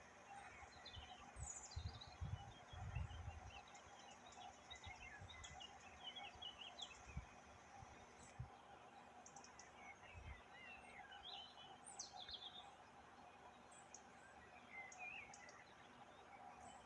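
Faint birdsong: several small birds chirping, with a couple of quick falling whistles, over a low outdoor background. A few low thumps sound in the first few seconds.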